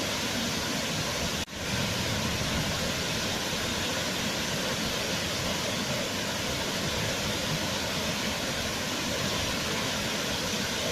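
Waterfall: steady rushing, splashing water, with a brief dropout about a second and a half in.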